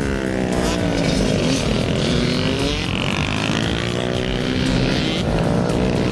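Dirt bike engine revving, its pitch rising and falling repeatedly as the rider opens and closes the throttle.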